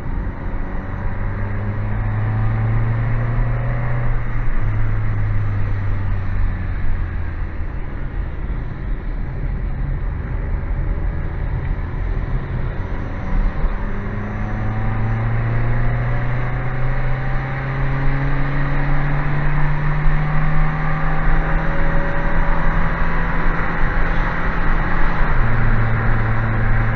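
Citroen Saxo petrol engine pulling hard under acceleration, its revs climbing slowly and then dropping suddenly at a gear change near the end, with an earlier shorter climb and drop. It is running smoothly at high revs after garage work and a fuel-system cleaner treatment.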